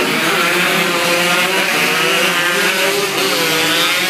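Several racing motorcycle engines running at high revs together, their overlapping pitches rising and falling as they accelerate and ease off.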